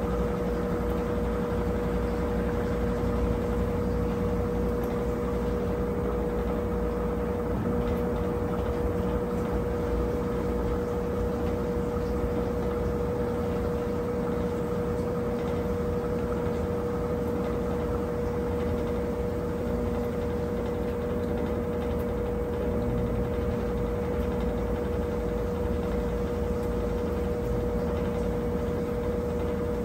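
A Brastemp 17 kg washing machine running steadily, a constant whine over a low rumble.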